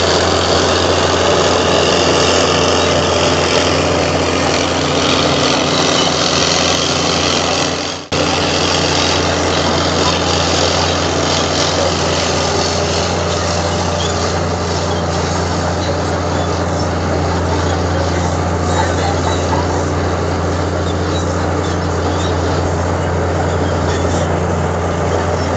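Bulldozer's heavy diesel engine running steadily, a constant low hum under dense mechanical noise. The sound drops out for a moment about eight seconds in.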